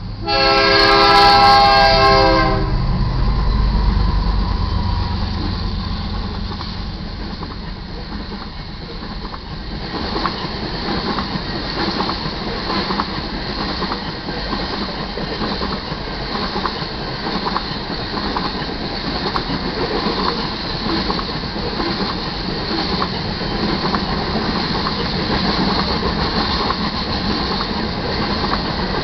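BNSF C44-9W freight locomotive's multi-tone horn sounds one loud blast of about two seconds at the grade crossing. The locomotives then rumble past, and the grain train's covered hopper cars roll by with a steady clickety-clack of wheels over the rail joints.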